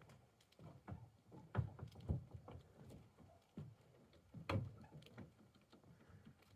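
Irregular soft thumps and knocks, a few a second, the loudest about one and a half, two and four and a half seconds in.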